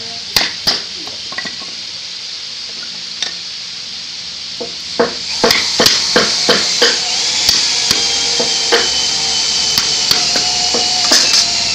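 Hammer blows on wood: a few separate knocks at first, then a steady run of strikes about two or three a second from around five seconds in, over a high hiss.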